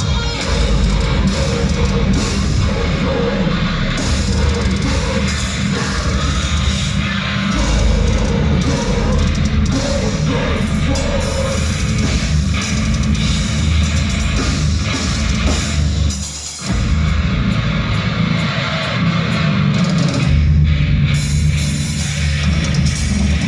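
Heavy metal band playing live and loud: distorted guitars and a drum kit, with a brief stop about two-thirds of the way through before the band comes back in.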